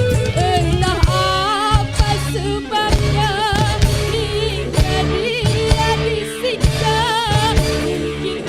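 A woman singing a melody with wide, wavering vibrato over live band accompaniment with a regular drum beat.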